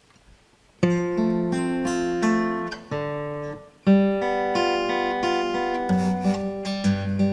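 Steel-string acoustic guitar fingerpicked in a waltz arpeggio, the melody notes struck a little harder than the accompaniment. It starts about a second in, with a short pause just before four seconds.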